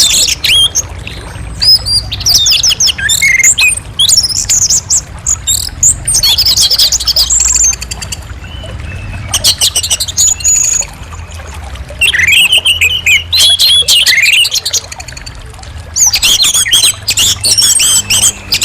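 Orange-headed thrush singing: loud bursts of varied whistled phrases and rapid trills, broken by short pauses.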